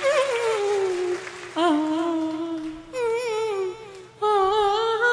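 A mimicry artist's voice holding a plain, wordless hummed tone in four short phrases, the first gliding down, the later ones wavering in pitch. It is the bare 'empty' voice sound that he goes on to shape into instruments such as a veena.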